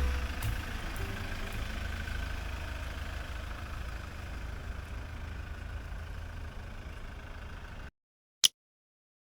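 A vehicle engine running with a steady low rumble, under the last music notes fading out in the first second or so. It cuts off abruptly near the end, followed by a single sharp click.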